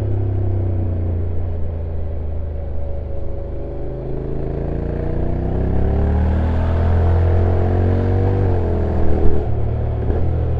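Honda NC750X DCT's parallel-twin engine on its stock exhaust, running downhill: the engine note dips, climbs steadily for a few seconds, then drops suddenly as the dual-clutch gearbox shifts up. A few sharp knocks follow about nine seconds in.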